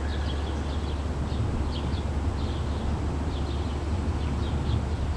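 Outdoor ambience under a thunderstorm: a steady low rumble with short, high, falling chirps scattered throughout.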